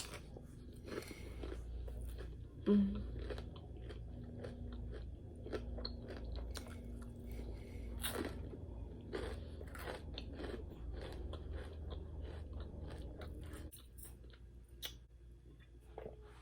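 Close-miked chewing and crunching of crispy fried chicken, a dense run of irregular crackles and wet mouth sounds, with one louder knock about three seconds in. The crunching stops about fourteen seconds in and it goes quieter.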